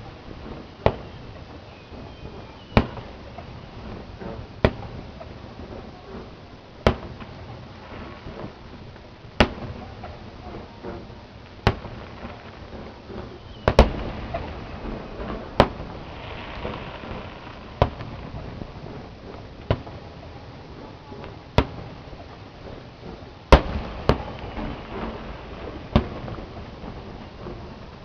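Aerial fireworks shells bursting, a sharp bang about every two seconds, some fourteen in all, over a steady background noise.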